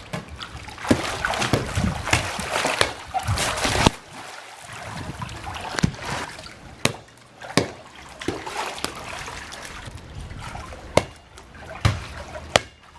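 Swimming-pool water splashing and sloshing as people move and play in it, with several sharp slaps on the water spread through.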